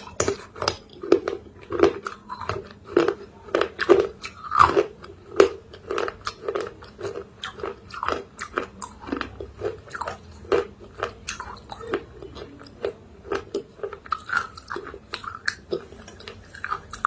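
A person biting and chewing crunchy pieces of baked clay pot with chalk paste, close to the microphone. There are sharp crunches about two a second, which turn softer and closer together about halfway through.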